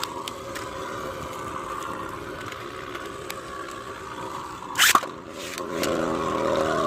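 Beyblade spinning tops whirring in a plastic stadium, with scattered light clicks of contact and one loud sharp clash about five seconds in. A louder rushing noise builds up near the end.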